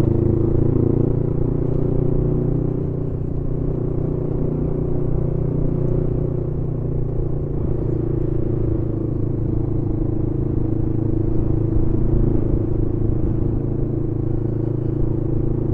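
Kawasaki ER-5 (ER500) 500 cc parallel-twin motorcycle engine running at a steady cruise while riding, its note rising slightly in the first second, with low wind rumble.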